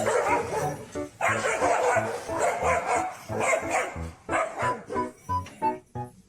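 A dog barking and yipping in short repeated barks, over background music.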